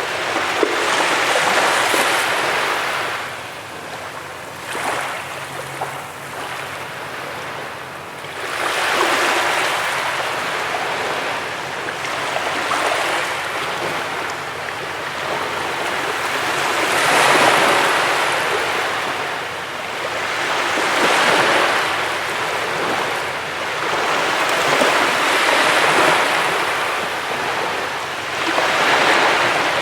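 Ocean surf breaking on a beach: waves surge in and wash back in a slow, uneven rhythm, one every several seconds.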